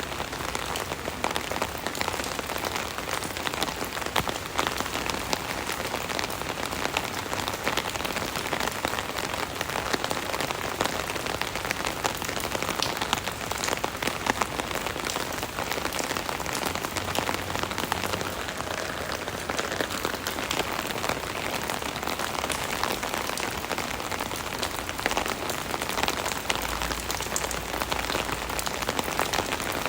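Steady rain pattering on an umbrella canopy overhead, a dense mix of many small drop impacts.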